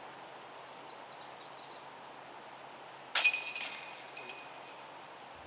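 Disc golf putt striking the chains of a metal basket: a sudden clash about three seconds in, followed by chains rattling and ringing that dies away over about a second, the putt that holes out for par. A few faint bird chirps come earlier, over steady outdoor background.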